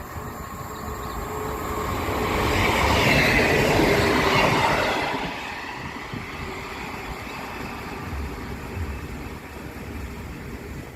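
Class 158 diesel multiple unit passing a level crossing. It grows louder over the first few seconds, is loudest from about three to five seconds in, then drops away sharply and fades to a lower rumble.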